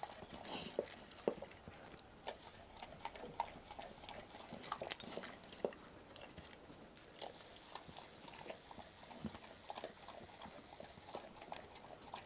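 A dog licking and eating: faint, irregular wet smacks and clicks, with one sharper click about five seconds in.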